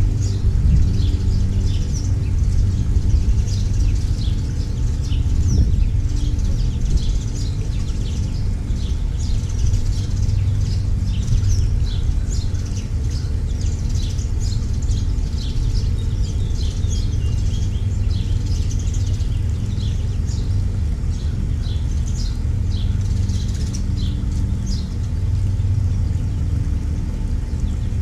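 Finches chirping in quick, overlapping short calls throughout, over a steady low drone that is louder than the birds.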